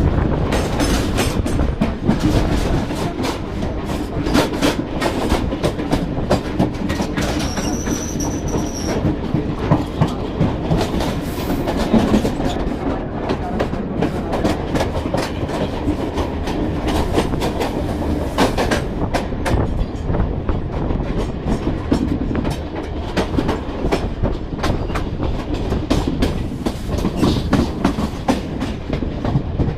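Mumbai suburban local train running on the track, its wheels clattering over rail joints in a dense run of clicks over a steady rumble, with a brief high squeal about eight seconds in.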